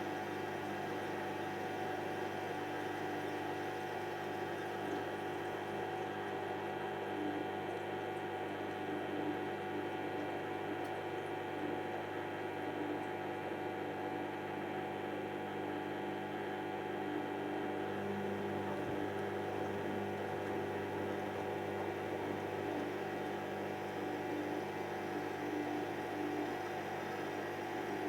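Hoover DYN7144XD1 washing machine running a cycle: its motor and drum make a steady hum of several tones.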